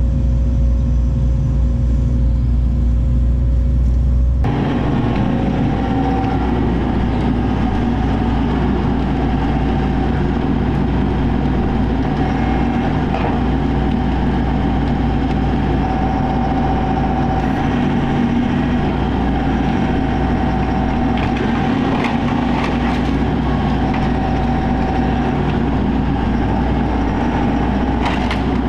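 Excavator's diesel engine running steadily. About four seconds in the sound changes abruptly to a busier mix with scattered knocks and crunches.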